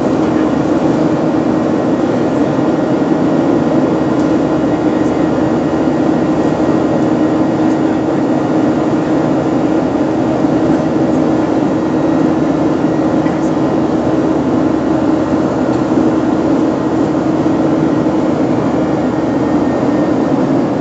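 Steady drone of a passenger airplane's engines and rushing air heard inside the cabin, an even, unchanging noise with a constant low hum.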